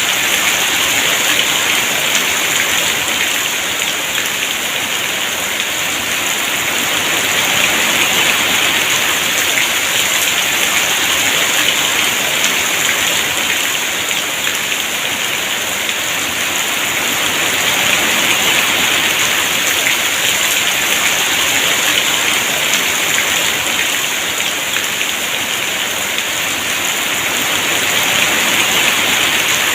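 Heavy rain falling steadily in a dense, even hiss, the downpour swelling and easing slightly every several seconds.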